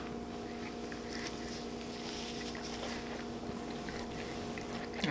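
Quiet chewing and small mouth sounds of someone eating, over a steady electrical hum, with a short click near the end.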